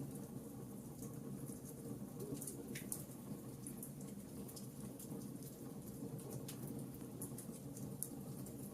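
Wood fire crackling in a fireplace: irregular small snaps and pops over a low, steady rumble of the flames.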